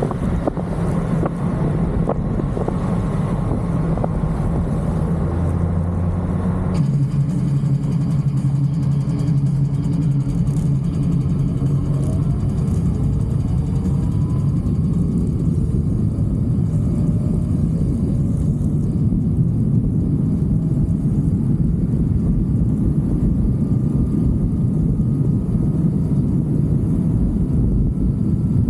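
Motorcycle running at road speed, a steady loud low rumble, with an abrupt change in the sound about seven seconds in.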